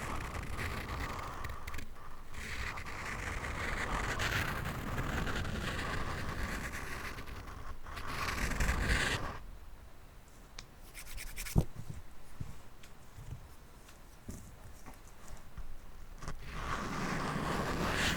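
Scratching and rubbing directly on a microphone, picked up very close through the mic itself. About halfway through it drops to quieter scratching with one sharp tap, and the full scratching returns near the end.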